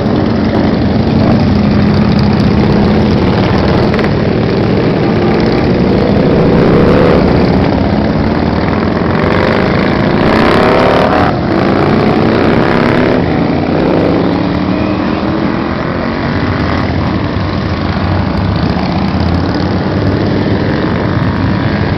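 Motorcycle engines running together in a parade, loud and continuous, with engines revving up and down, most strongly in the middle.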